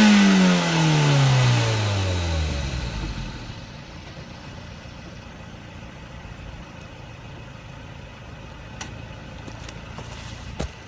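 2008 Mazda MX-5's four-cylinder engine through its stock exhaust, its revs falling steadily from a high peak and fading over about three seconds. Then only a faint low rumble remains, with a few light clicks.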